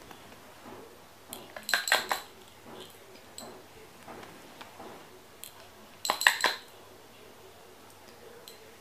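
Two short bursts of light clinking, as of small hard objects knocking together with a faint ring, about two seconds in and again about six seconds in.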